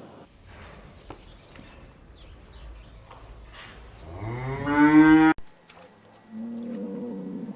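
Cow mooing: a loud moo that rises in pitch about four seconds in and cuts off abruptly, then a second, quieter and lower moo near the end.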